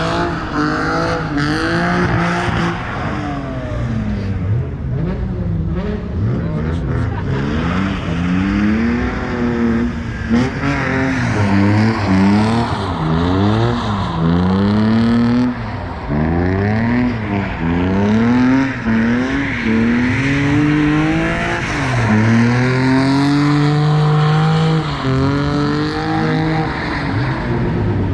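Car engine being revved hard again and again while drifting, its pitch climbing and dropping every second or two, with tyre squeal underneath.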